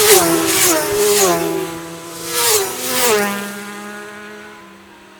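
Racing motorcycles passing at speed one after another, the engine note dropping in pitch as each goes by. The sound fades away about four seconds in.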